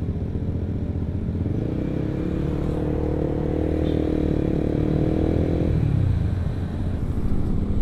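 Honda CBR150R single-cylinder engine through an R9 aftermarket exhaust, heard while riding over steady road and wind rumble. About a second and a half in, the engine note climbs a little under throttle, then drops away abruptly near six seconds as the throttle closes.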